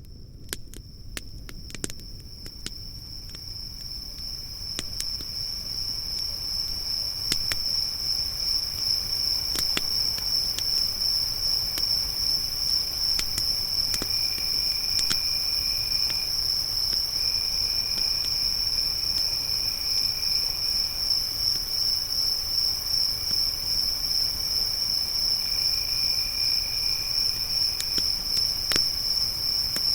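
Crickets chirping in a steady high trill, with a second, lower insect trill that comes and goes, and scattered sharp pops and snaps from a crackling campfire. The sound fades in over the first several seconds.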